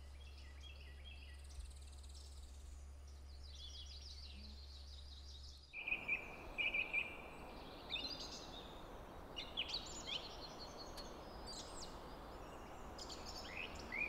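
Outdoor nature ambience: small birds chirping and calling over a steady background noise. About six seconds in, a low hum drops out and a fuller, even background noise takes over, with louder bird calls.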